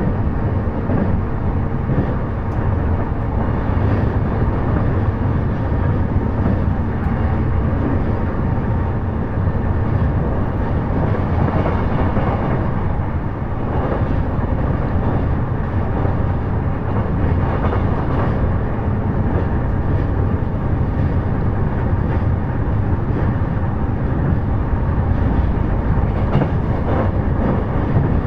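Running noise of a JR East E233 series electric multiple unit heard from inside a passenger car: a steady rumble of wheels on rail and the moving train, with faint steady tones, at an even level throughout.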